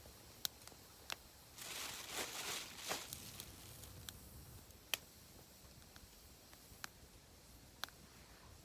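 Wood fire crackling quietly: a few sharp, widely spaced pops, with a short burst of rustling hiss about two seconds in.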